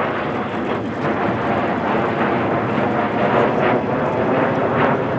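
Loud, steady jet engine noise of Mitsubishi F-2A fighters flying past.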